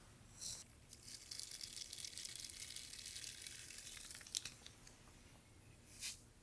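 A brush drawn through hair, giving a crackly bristle rasp of about three seconds, then a sharp click and a short swish near the end.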